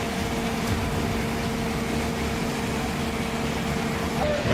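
Engines running steadily at a working building fire, a low rumble with a constant mechanical hum holding two steady tones; the higher tone drops out shortly before the end.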